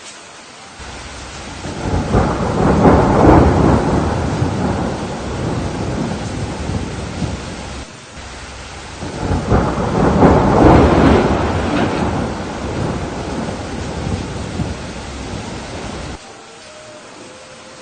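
Steady rain with two long rolls of thunder: the first builds about two seconds in and rumbles for several seconds, the second swells about nine seconds in and rumbles on until it drops off sharply near the end.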